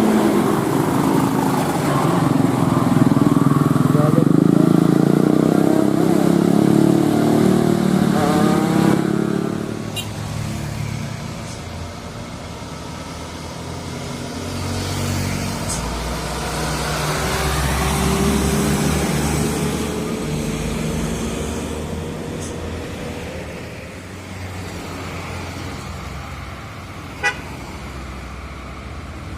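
Heavy truck diesel engines labouring up a steep climb. Loud for the first nine seconds, then quieter, with an engine note slowly rising in pitch in the second half.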